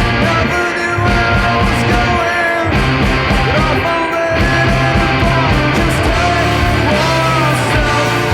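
Rock band playing live, with electric guitar over a steady bass line.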